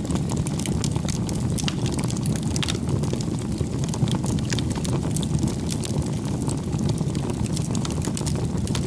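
Campfire burning: a steady low rush of flames with frequent sharp crackles and pops from the wood.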